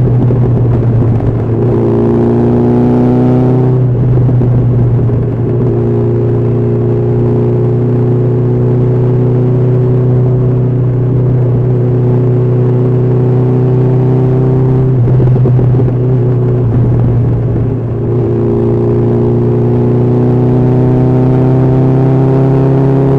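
Honda CB1300SF's inline-four engine running at highway speed, its pitch climbing slowly under throttle and breaking off briefly about 4, 15 and 18 seconds in, over a steady low rumble.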